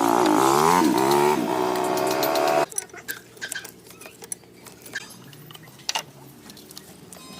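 An engine running with its pitch wavering up and down, cutting off suddenly about two and a half seconds in, followed by light clicks and knocks.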